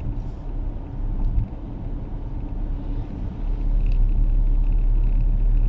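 Car cabin road noise while driving on a snowy road: a steady low rumble of tyres and engine, growing louder about three and a half seconds in.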